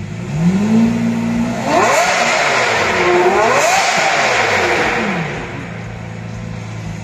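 Lamborghini Murciélago roadster's V12 engine revved while standing: it rises from idle and holds briefly, then is blipped high twice and drops back to idle about five seconds in.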